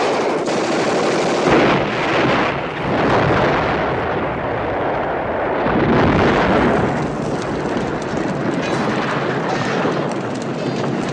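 Automatic gunfire in sustained, rapid bursts, shots crowding together and swelling louder several times.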